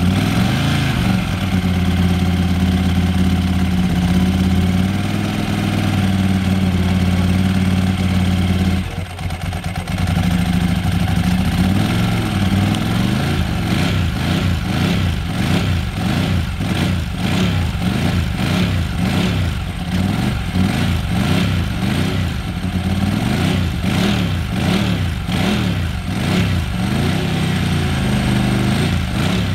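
Ducati 748R race bike's V-twin engine, just started, running steadily at a fast idle, with a brief dip about nine seconds in. It is then revved over and over in quick throttle blips, the pitch rising and falling again and again.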